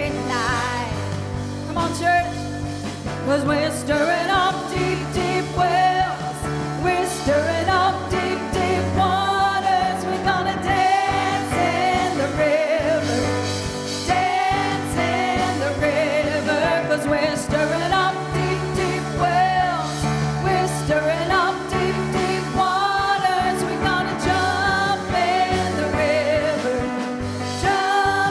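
Gospel worship music: a singer sings over a live church band, with sustained low bass notes under the melody.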